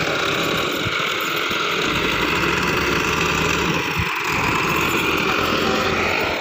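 Tractor engine running steadily, with two short knocks about one and four seconds in.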